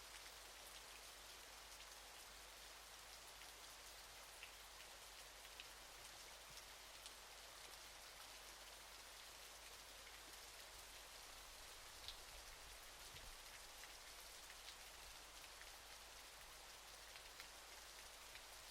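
Faint, steady hiss of a waterfall's falling water, with scattered small splashes and drips.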